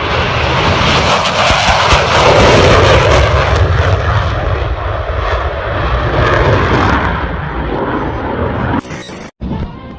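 Low-flying airplane passing close by: a loud, rushing engine noise that is strongest two to three seconds in and slowly eases, then cuts off abruptly near the end.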